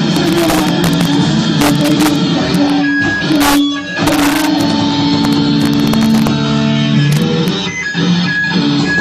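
Live band playing loud electric-guitar rock, heavily distorted and overloaded in the recording. It breaks off briefly twice, about four and eight seconds in.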